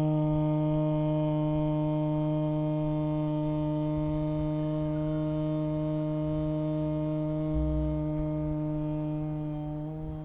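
A single voice chanting makara aloud: a long hummed "mmm", the M of A-U-M, held on one steady pitch for about ten seconds and tapering off near the end.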